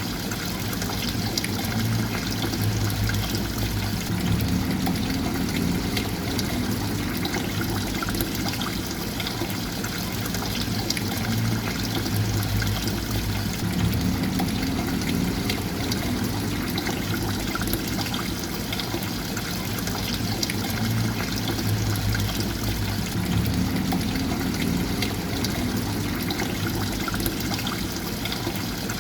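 Steady trickling and pouring water, with a low rumble that swells briefly about every nine and a half seconds.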